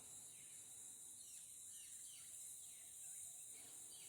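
Faint rural ambience: a steady high insect drone with a small bird giving short, falling chirps every half second or so.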